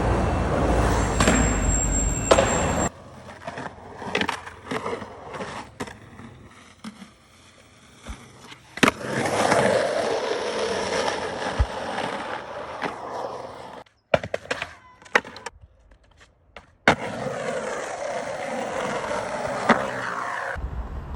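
Skateboard wheels rolling, with a loud rumble in the first few seconds, broken by several sharp clacks of the board striking the ground, across a few short clips.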